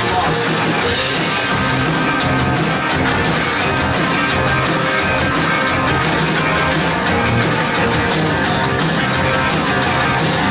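Live worship band playing an instrumental passage between sung lines: guitars and a drum kit with a steady beat.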